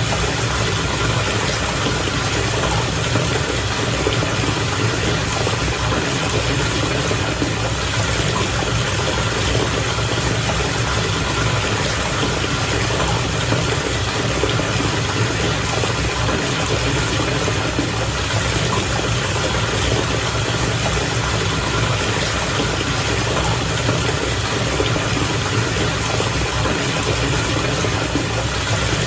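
Bath water bubbling steadily over the even hum of the motor driving the bubbles. The sound stays unchanged throughout.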